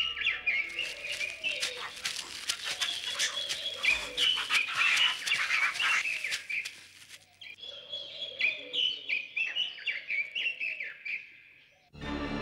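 Forest birds chirping, short high chirps repeating over and over. A dense run of crackles and rustles goes with them through the first half and stops about seven seconds in.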